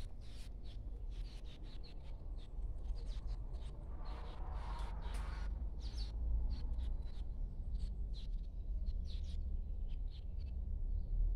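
Small birds chirping in short, scattered notes over a steady low rumble on the microphone, with a brief rushing noise about four seconds in.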